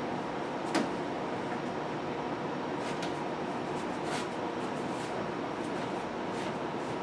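A few light knocks and clicks, about four spread across several seconds, over a steady background hiss with a faint hum: handling noise as the appliance is being looked over.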